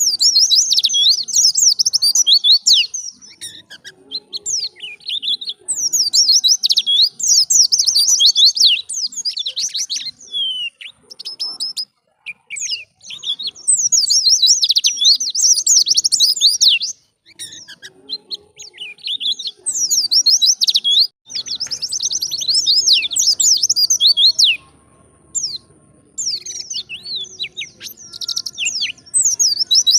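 White-eye (pleci) singing its wild-type 'ngalas' song. It comes as loud, rapid, high twittering phrases of about two to three seconds, separated by short pauses.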